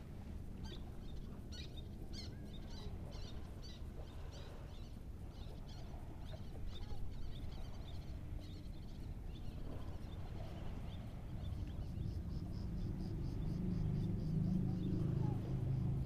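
Short high bird chirps repeating about twice a second over a steady low rumble of wind and sea. From about twelve seconds in, a low engine hum grows louder.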